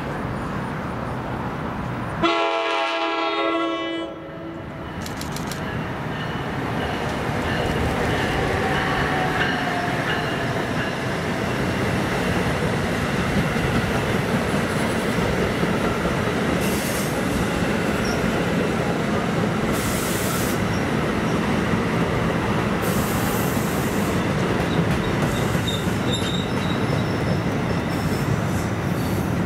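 A train horn sounds one loud blast of about two seconds, a chord of several tones, from the approaching NJ Transit commuter train. The train of multilevel coaches then passes at speed: steady noise of wheels on rail with clatter over the track joints.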